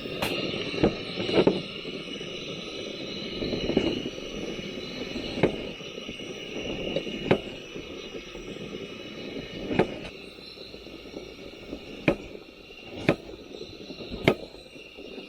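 Irregular sharp knocks, about a dozen, spaced a second or two apart, typical of a knife cutting food on a board. Under them is a steady high-pitched background sound.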